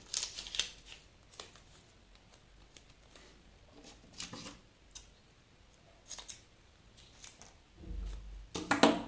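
Scissors snipping and double-sided tape being handled, in short scattered clicks and rustles, with a louder clatter near the end.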